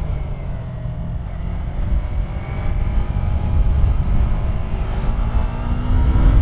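Yamaha YZF-R3's parallel-twin engine under way, its revs dropping early on and then climbing again, over a heavy low rush of wind on the microphone.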